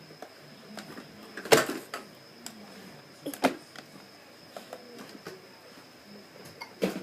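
A child's toy airplane knocking and bumping against things: a few separate sharp knocks, the loudest about a second and a half in, more around three and a half seconds and near the end, with small clicks between.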